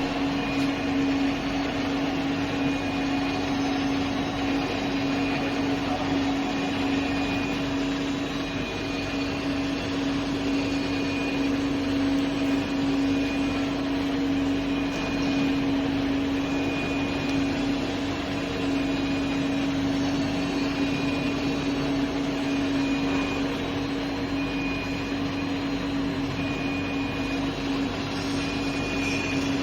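Steady machinery hum from an industrial heat-treatment furnace plant, with a strong low drone and a faint high-pitched tone pulsing about every second and a half.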